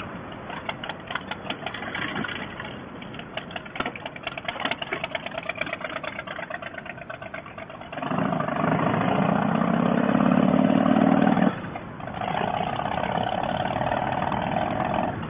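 Harley-Davidson V-twin engine of a 2005 CVO Fat Boy, first running at low revs with a pulsing, uneven beat. About eight seconds in it grows louder and rises in pitch as the bike accelerates, drops away briefly a few seconds later, then runs on steadily.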